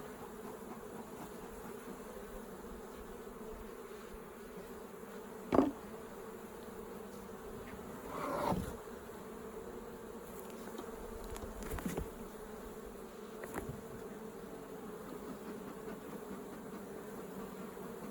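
Honey bees buzzing around an opened hive as a steady hum, with a few brief louder moments; the loudest comes about five and a half seconds in and a longer swell follows near the middle.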